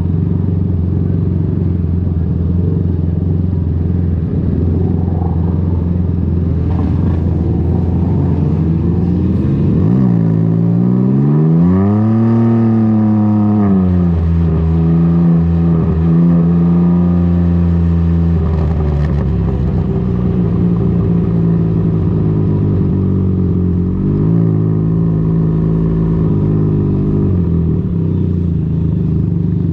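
Can-Am Ryker three-wheeler engine running loud through an aftermarket BKD Insomnia series exhaust while riding. The engine note climbs and falls about a third of the way through, and rises briefly again later.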